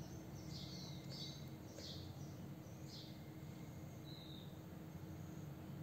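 Faint bird chirps: a handful of short high calls in the first three seconds and one more about four seconds in, over a low steady hum.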